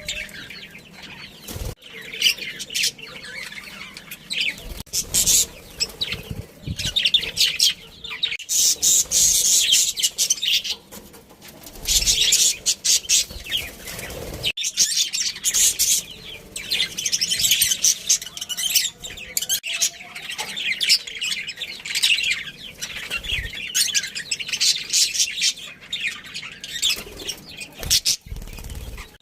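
A flock of budgerigars chirping and chattering in a dense, unbroken warble of rapid high notes, with busier, louder spells.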